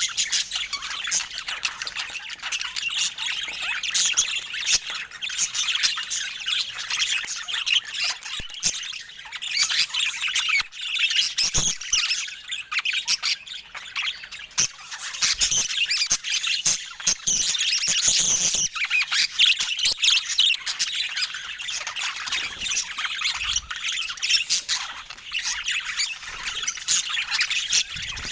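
Budgerigars chattering and warbling without a break, with scattered sharp clicks mixed in.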